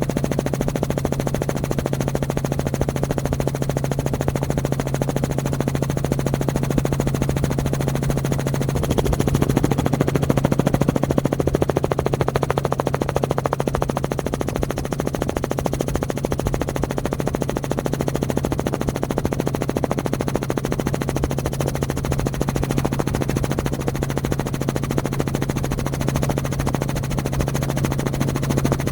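Engine running steadily with a low hum and a fast, even pulsing beat, a little louder about ten seconds in.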